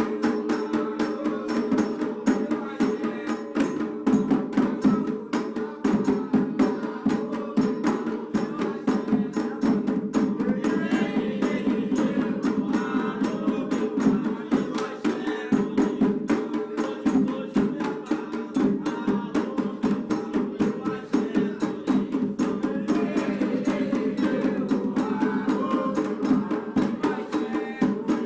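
Atabaque hand drums playing a candomblé rhythm for Oxum, led by the rum, the lead drum, with quick strokes several times a second over a steady ringing tone.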